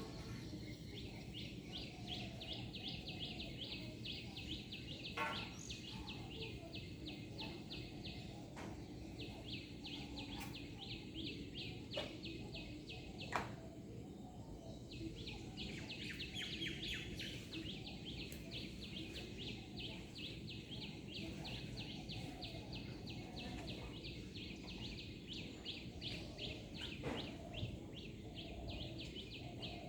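A bird calling in long runs of quick, evenly spaced high chirps, about five a second, breaking off for a moment about halfway through and then starting again, over a steady low background hum with a few sharp knocks.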